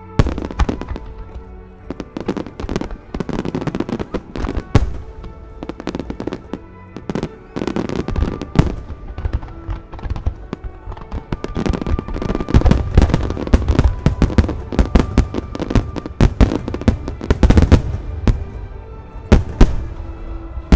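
Fireworks display: aerial shells bursting in rapid, overlapping bangs and crackles, densest in the second half, with music playing underneath.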